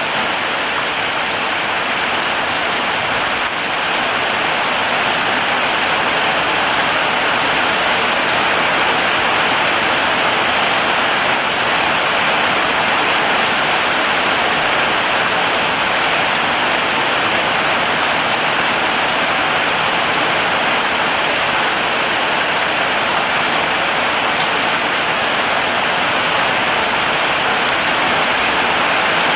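Heavy rain falling steadily, a dense, even hiss of many drops that rises slightly in level a few seconds in.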